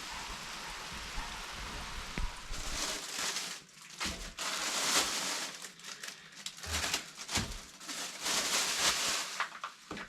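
Garden sprinklers spraying water: a steady hiss that gets louder about two and a half seconds in and then comes and goes in uneven surges.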